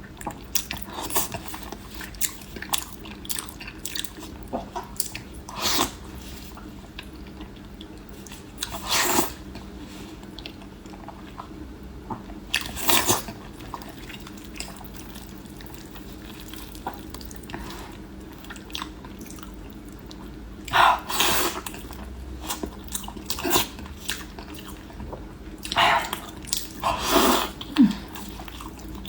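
Biting and chewing fatty pork hock: irregular mouth clicks and smacks, with several louder bites scattered through.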